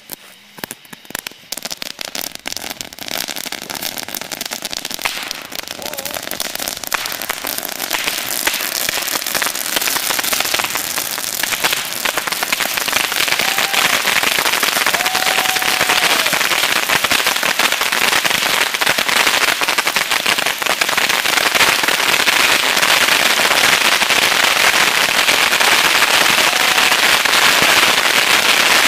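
Hundreds of bottle rockets going off in rapid succession from a homemade multi-rocket launcher: a dense, continuous crackle of pops that builds steadily louder as more fuses catch.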